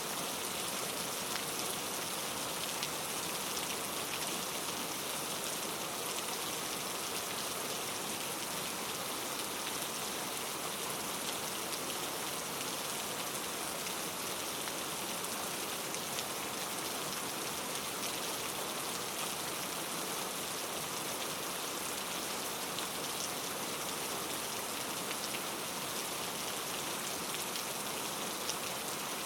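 Steady rain falling, with fine patter of drops on a surface and an even hiss, unchanging throughout.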